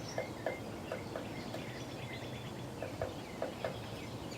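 Woodpeckers pecking at the wooden wall of a shed: short dry taps at an uneven pace, singly and in quick pairs, which the owner takes for hunting carpenter bees in the wood.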